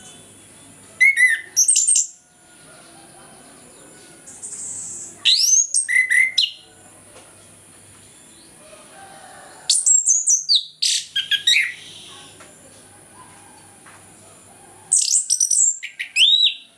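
Chestnut-capped thrush singing in four short bursts of rapid, sweeping, high whistled phrases a few seconds apart, over a faint steady hum.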